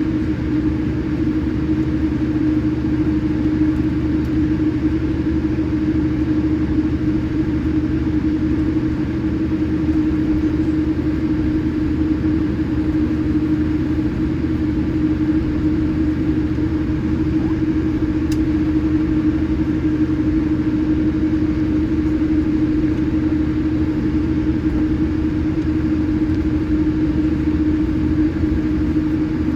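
Steady drone of a Boeing 787-8's engines and airflow heard inside the passenger cabin, with a constant low hum running under it.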